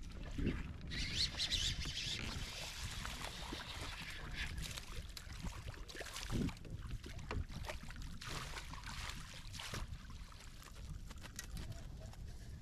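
Water splashing and sloshing around a kayak, with a steady low wind rumble on the microphone; a longer hissing splash runs from about a second in to about four seconds in, followed by scattered short splashes and knocks.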